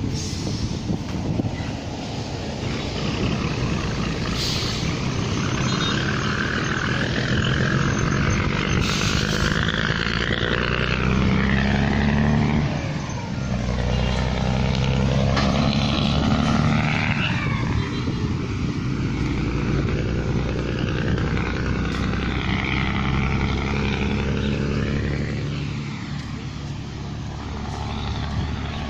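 A motor vehicle's engine running, its pitch rising and falling as it speeds up and slows down, with road and wind noise underneath.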